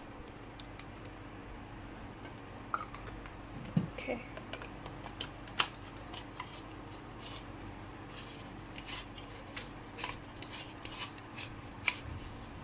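Hands handling a K-pop light stick and its packaging: scattered small clicks, taps and short rustles, over a faint steady hum.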